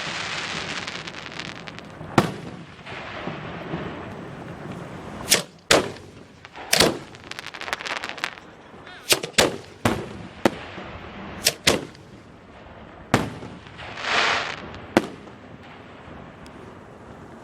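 Fireworks display: a dozen or more sharp bangs of aerial shells fired from mortars and bursting, irregularly spaced and some in quick pairs, with hissing, crackling spells at the start and again about 14 seconds in. The bangs stop a couple of seconds before the end.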